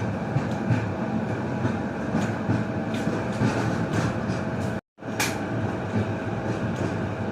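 Passenger train running along the line, a steady rumble with scattered sharp clicks of the wheels over the rails. The noise breaks off for a moment about two-thirds of the way through, then comes back with a sharp click.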